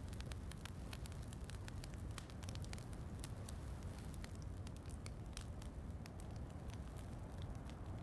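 Wood fire in a fireplace crackling, with frequent irregular sharp pops over a steady low rumble, and rain pattering in the background.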